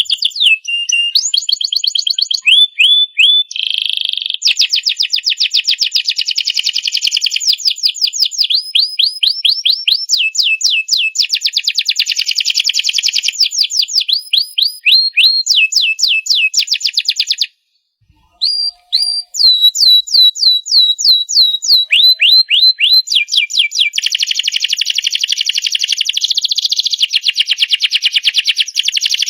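Domestic canary singing a long song of rapid trills and rolls, each phrase a fast run of repeated whistled notes, several of them sliding down in pitch. The song breaks off for about a second just past the middle, then carries straight on.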